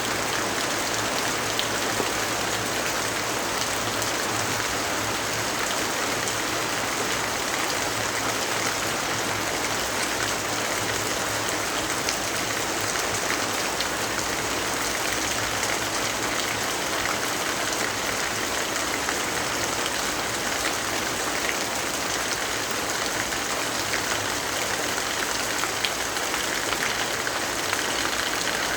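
Steady, even rainfall: a dense hiss of drops that holds at one level without let-up.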